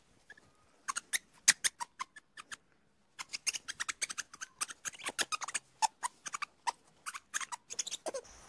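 A small animal chewing: quick, irregular crunching clicks, with a short pause about three seconds in.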